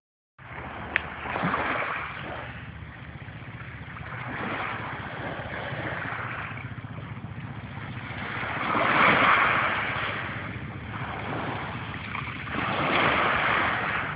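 Sea waves washing in surges that swell and ease every few seconds over a low steady rumble, with one sharp click about a second in.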